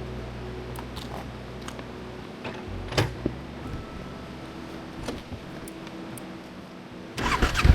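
A few sharp clicks and small handling knocks on a motorcycle, then near the end the Yamaha Ténéré 700's starter cranks and its 689 cc parallel-twin engine catches and starts running after the bike was dropped.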